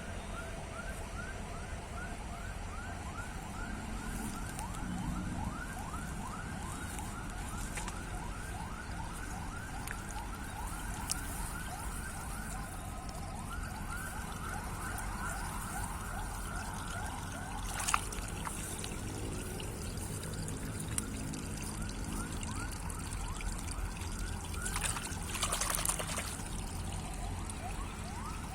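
A chorus of calling animals: short rising chirps repeating several times a second, without a break. A sharp click comes about two thirds of the way through, and a brief splash of water near the end.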